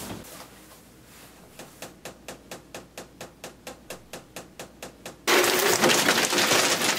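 A run of evenly spaced sharp clicks, about four or five a second, then a loud rushing hiss that starts abruptly about five seconds in and keeps going.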